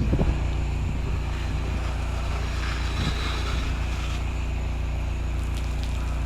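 Small engine of a truck-mounted soft-wash spray rig running steadily, with a hiss of spray and wind over it.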